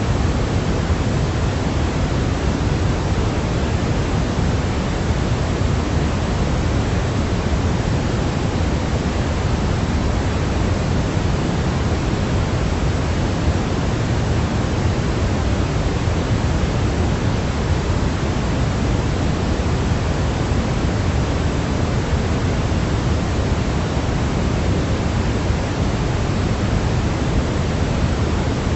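Continuous baby-sleep white noise: an even, unbroken rushing hiss, heavier in the low end than in the highs, so it sounds deeper and softer than pure white noise.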